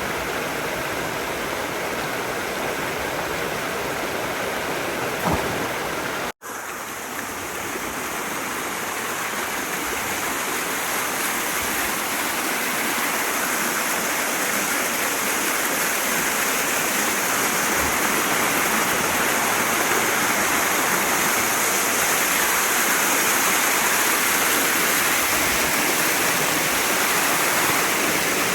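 Mountain headwater stream rushing and splashing over rocks in a steady, loud rush. It cuts out for an instant about six seconds in, then comes back slightly louder.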